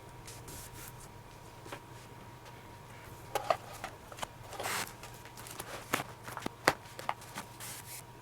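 Leather lace being worked through a baseball glove during relacing: scattered clicks and taps from handling, with a brief rasp about halfway through as the lace is drawn through the leather.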